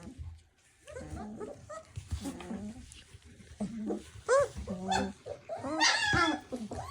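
Three-week-old German Shepherd puppies yipping and whining in short, high-pitched cries as they play-fight, getting louder and more frequent from about four seconds in.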